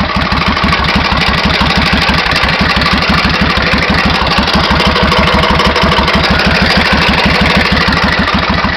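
Suzuki VS1400 Intruder V-twin engine idling steadily, with a metallic knocking like hammer taps that is less obvious on this side of the engine. The cause is undiagnosed: mechanics have variously blamed a valve, a hydraulic lifter, the crankshaft or a crankshaft bearing.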